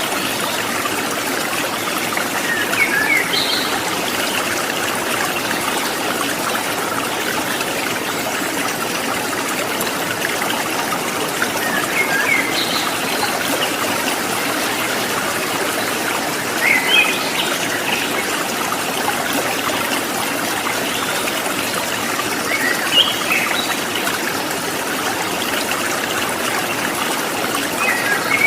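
Water trickling steadily, with a bird giving short clusters of chirps about five times.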